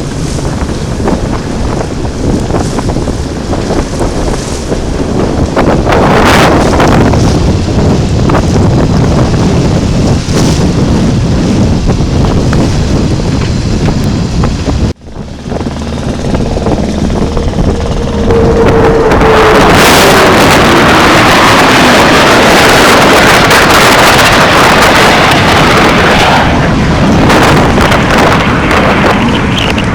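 Strong wind buffeting the microphone on a sailboat under way. There is a short break about halfway, and then a louder rush of noise with a single tone sliding downward through it.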